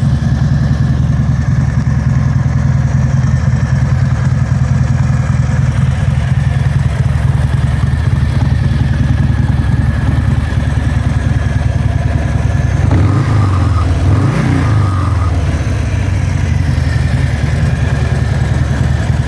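Harley-Davidson Fat Bob 114's Milwaukee-Eight 114 V-twin idling steadily, with two brief rises in engine note about two-thirds of the way through.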